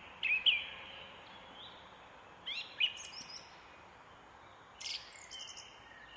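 High-pitched bird chirps, some in quick pairs, in the first second and again about two and a half seconds in, with higher, faster trilled calls around three and five seconds in, over a steady outdoor hiss.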